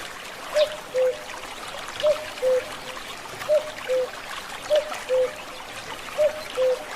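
A bird's low two-note call, a higher note then a slightly lower one, repeated five times about every second and a half, over the steady trickle of a forest stream.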